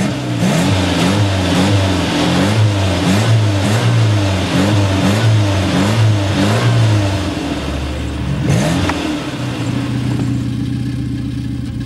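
Car engine revved up and down over and over in quick blips, then settling into a steady idle about nine seconds in.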